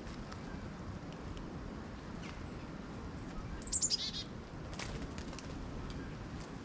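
A bird gives one short call about halfway through, a quick run of notes falling in pitch, over a steady low background rumble.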